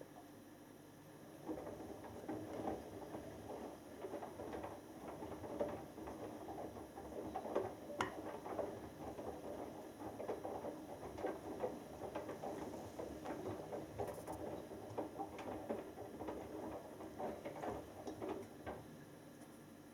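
Washing machine drum turning the wet load, with sloshing and pattering of clothes and water. It starts about a second and a half in and stops just before the end, leaving only a low hum.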